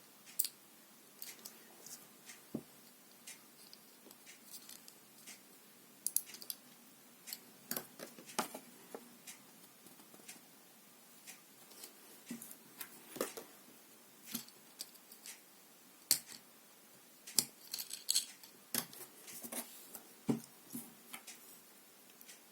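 Small plastic LEGO bricks being handled and snapped together, giving irregular sharp clicks and light plastic knocks.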